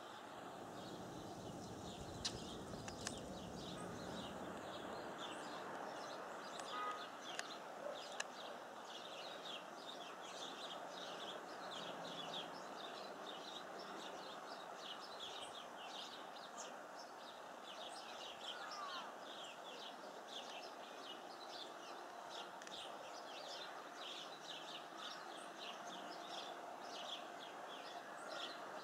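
A flock of small songbirds chirping together: many short, high chirps overlapping continuously, over a steady background hiss.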